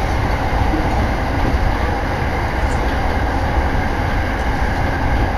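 Steady running noise of a Keiyo Line electric commuter train at speed, heard from aboard, with wind from an open window buffeting the microphone.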